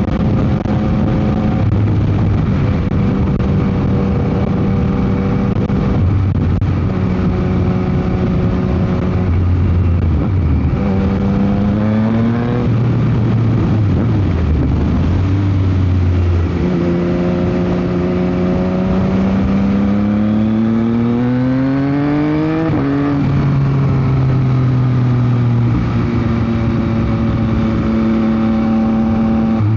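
Yamaha MT-09 SP's inline three-cylinder engine through a Dominator GP aftermarket exhaust while riding. The engine note holds steady at part throttle, then climbs steadily under acceleration for about six seconds in the second half and drops sharply at an upshift, with a smaller rise and drop about twelve seconds in. Wind noise on the microphone runs underneath.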